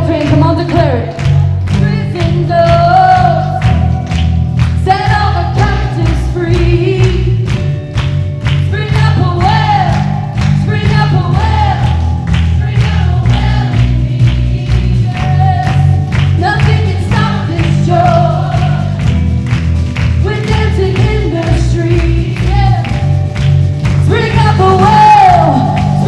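Live Christian worship band playing and singing a praise song: voices carrying the melody over bass and a steady drum beat.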